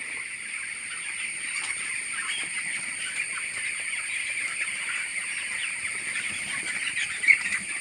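A large flock of chickens in a farm shed, many birds calling at once in a continuous overlapping chatter, with one louder call near the end.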